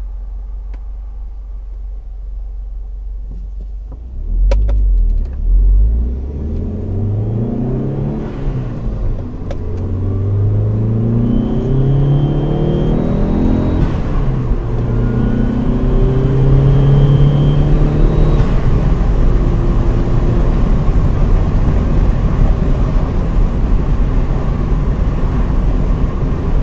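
2006 PT Cruiser GT's turbocharged 2.4-litre four-cylinder with a K&N Typhoon intake, running low and steady at first, then two loud low thumps about four seconds in. The engine then climbs in pitch and drops back several times, as in upshifts through the gears, with a faint high whistle under load, before settling into a steady run for the last third.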